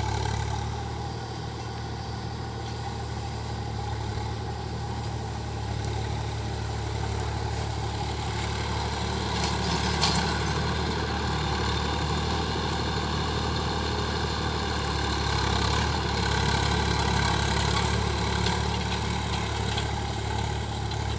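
Sonalika DI 740 tractor's four-stroke, water-cooled diesel engine running steadily, a little louder about two-thirds of the way through, with a brief click about ten seconds in.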